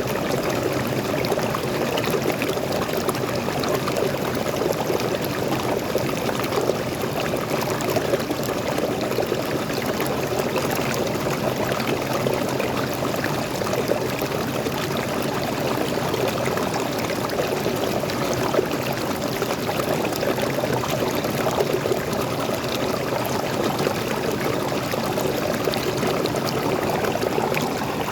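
Waterfall: fresh water pouring steadily in an even, unbroken rush.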